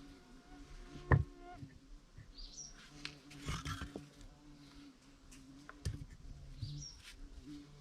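A few sharp knocks, the loudest about a second in with a brief ringing note after it. Under them a fly buzzes steadily, and a bird chirps twice.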